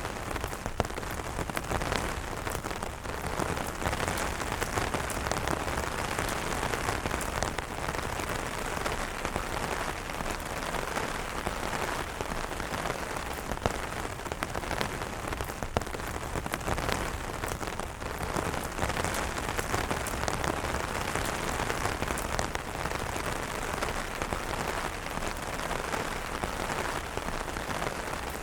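Steady rain falling on umbrellas, with many sharp individual drop taps over a continuous hiss.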